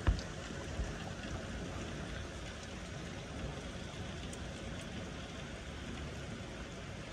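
Steady rain falling in a thunderstorm. A sharp knock just after the start is the loudest thing, with a fainter one under a second in.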